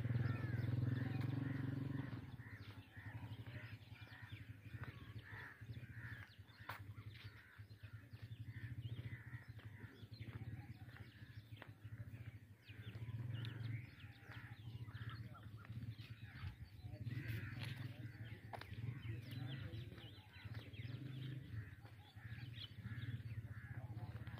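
Birds calling outdoors, many short calls repeating over a steady low hum.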